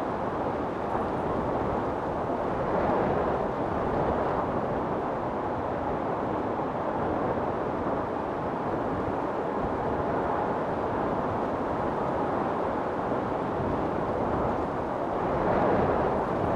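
Storm wind blowing steadily, swelling into gusts about three seconds in and again near the end.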